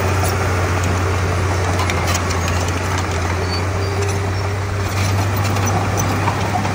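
Diesel engine of a Komatsu D31P bulldozer running steadily with a constant low hum, easing off slightly just before five seconds in and then picking back up.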